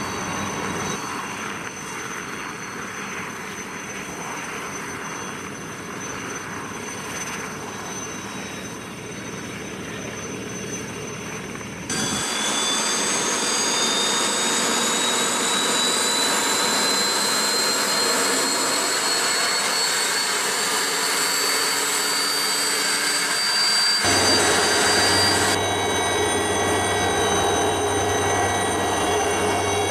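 Helicopter engines running, in three cut-together stretches. In the middle stretch a high whine rises slowly and steadily in pitch.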